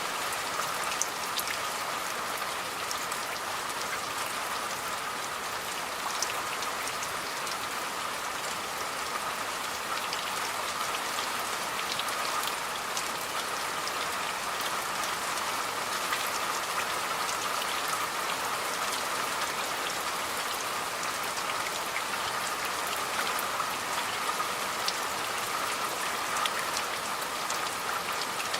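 Steady rain falling: a dense, even hiss with many scattered sharp drop ticks.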